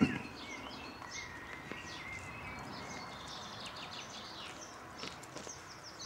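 Several small birds chirping and twittering throughout over a steady outdoor hiss, with one sharp thump right at the start.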